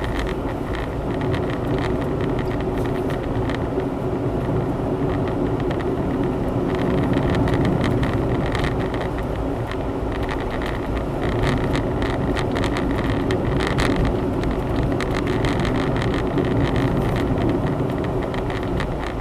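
Honda Zest kei car being driven: a steady mix of engine and road noise, with scattered light clicks.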